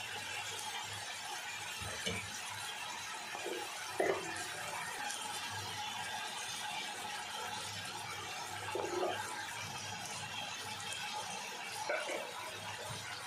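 Kidney beans sizzling steadily in oil in an aluminium pressure cooker as spices go in, with a few short knocks of a spoon against the cooker.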